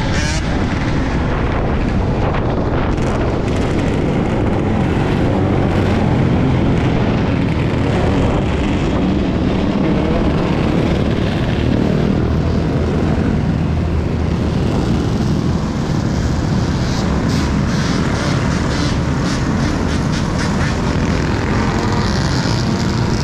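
Steady wind rush and road noise on an action-camera microphone while riding an electric dirt bike, with no engine note.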